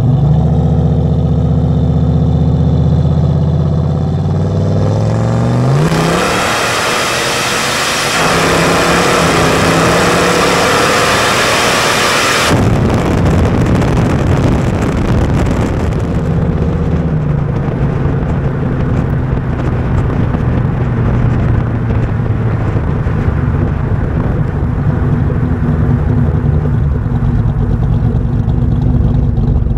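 A vehicle's engine accelerating, rising in pitch, heard through an action camera mounted outside low on the body, with a loud rush of wind and road noise over the middle stretch. The sound cuts off abruptly about twelve seconds in; the engine then pulls up again and settles to a steady run.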